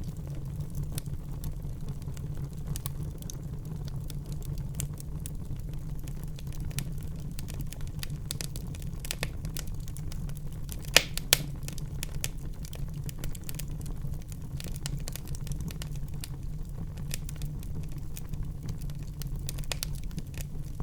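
Wood fire burning in a fireplace: a steady low rumble of the flames under scattered crackles, with two loud pops close together about halfway through.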